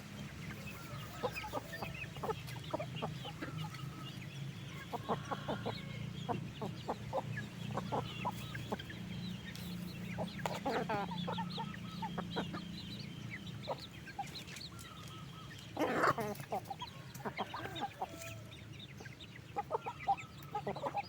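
A flock of chickens clucking, with many short overlapping calls and one louder call about three quarters of the way through, over a steady low hum.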